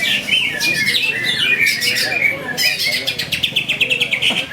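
Several greater green leafbirds (cucak ijo) singing at once: a dense jumble of varied whistles and chirps, with a fast run of rapidly repeated notes about three seconds in.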